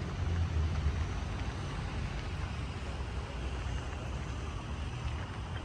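City street ambience: a steady low rumble of road traffic with a general haze of urban noise.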